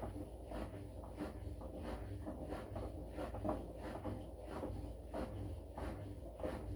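Washing machine running mid-cycle: a steady low motor hum under soft, repeated clunks and swishes of laundry and water tumbling in the drum, about two a second.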